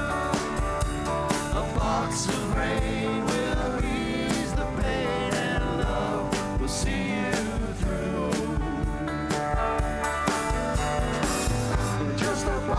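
Rock band playing live: a drum kit keeping a steady beat under guitars, with a lead line bending in pitch over the top.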